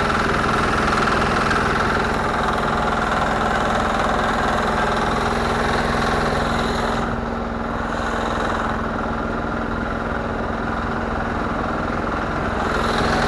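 Garden tractor engine idling steadily with an even hum; the brighter, higher part of the sound drops away for about five seconds after the middle, then returns.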